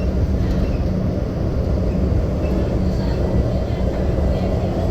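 Modern tram running between stops, heard from inside the car: a steady low rumble with a constant hum.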